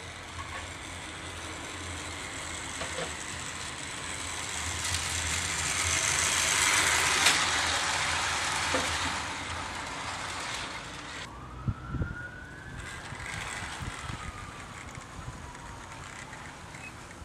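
A 00 gauge model train runs on an outdoor garden railway track, its rushing running noise swelling for about seven seconds and then fading. Later a single tone rises and falls over a few seconds, like a distant siren, with a couple of knocks about twelve seconds in.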